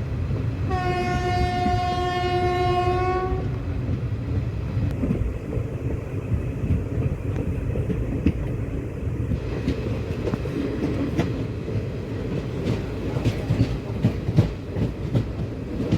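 Passenger train running with a steady rumble. A locomotive horn sounds one held blast of about two and a half seconds near the start. Later the wheels click over rail joints.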